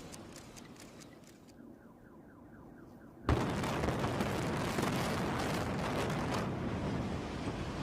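High-rise tower brought down by demolition implosion: a sudden loud blast of explosive charges about three seconds in, followed by the sustained rumble of the building collapsing.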